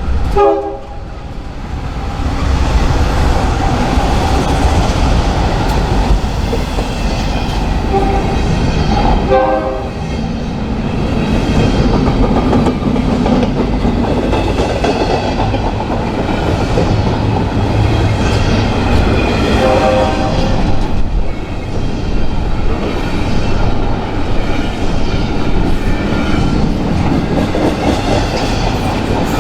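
A train rolling past with steady rumbling and wheels clacking over rail joints. A locomotive horn sounds three short blasts, about ten seconds apart.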